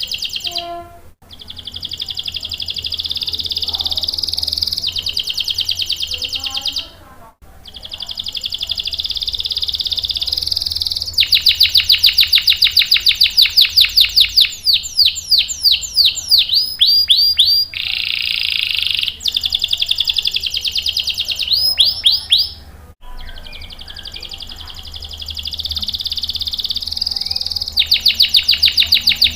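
Domestic canary singing: long rolling trills and fast runs of high whistled notes that sweep downward, in phrases broken by sudden cuts.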